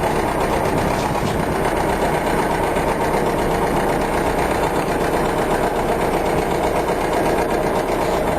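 Ford 460 V8 engine running steadily with the PTO engaged, driving the hydraulic pump that works the dump bed.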